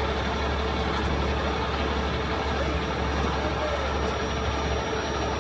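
Heavy rotator tow truck's diesel engine running steadily, powering the hydraulics for a lift.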